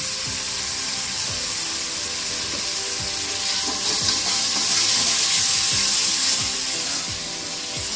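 Onion-tomato masala frying in oil in an aluminium pot, sizzling steadily while a metal spoon stirs it, the sizzle louder in the middle.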